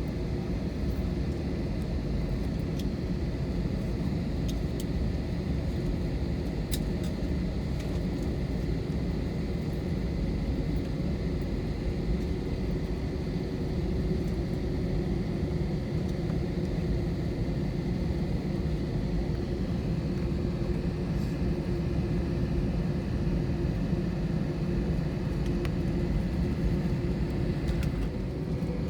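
Steady engine rumble and airflow noise inside an Airbus A321 airliner's cabin, with a faint steady whine above it.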